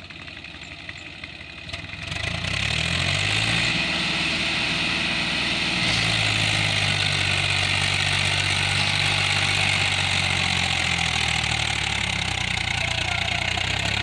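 Swaraj 744 tractor's three-cylinder diesel engine running low at first, then revving up about two seconds in, its pitch climbing, and running steadily at high revs from about six seconds in.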